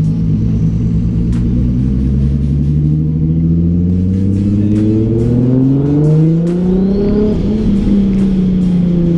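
RB-swapped Datsun Z's engine under acceleration, its pitch climbing steadily for about five seconds, then easing off and falling in pitch near the end.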